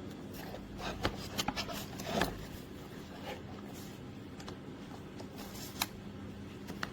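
A series of light clicks and short scraping rustles, bunched in the first couple of seconds with a sharp click near the end, over a faint steady hum.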